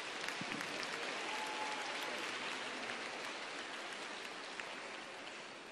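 Arena crowd applauding and cheering as the skaters are introduced, the clapping slowly dying away towards the end.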